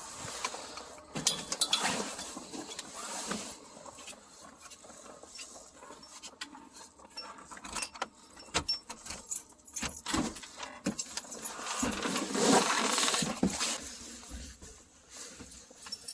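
Rustling and clattering as people come into a camper and take off snowmobile riding gear: scattered clicks and knocks, with two longer bouts of rustling, one near the start and one about twelve seconds in.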